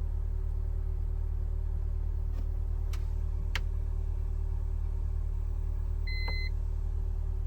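A steady low machine hum, with two sharp clicks about three seconds in and a short electronic beep about six seconds in.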